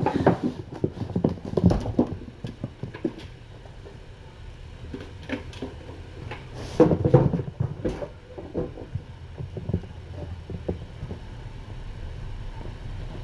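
Kittens scampering and wrestling on a floor, making a run of irregular thuds and knocks, heaviest in the first few seconds and again about seven seconds in, over a steady low room hum.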